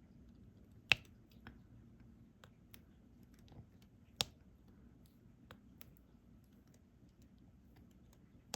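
Irregular small clicks and taps of a diamond-painting drill pen placing resin drills onto the sticky canvas, with two louder taps about a second in and about four seconds in.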